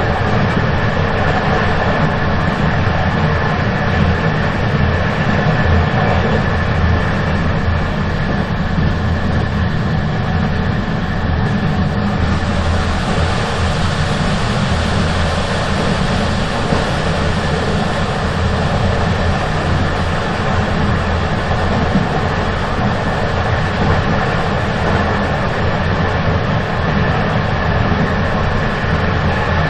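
Moving train running steadily: a continuous heavy low rumble with a faint steady high tone. The hiss brightens a little about halfway through, then settles.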